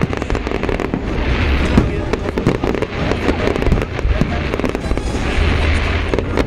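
Fireworks display: a continuous run of bangs and cracks over low rumbling booms. Hissing crackle swells about a second in and again near the end.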